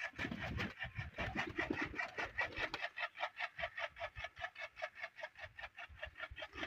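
A bird calling in a rapid, even series of short chirps, about six a second. Low knocks and rustling come in the first two seconds as the wooden loft door is handled.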